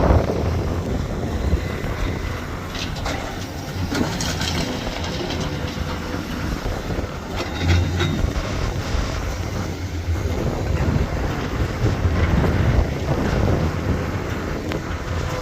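Low rumble of a moving vehicle, with wind buffeting the microphone and a few brief clicks.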